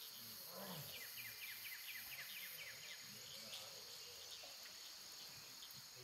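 Faint forest ambience: about a second in, a small bird gives a quick trill of short, evenly spaced descending notes, roughly seven a second, lasting under two seconds, over a steady high hiss.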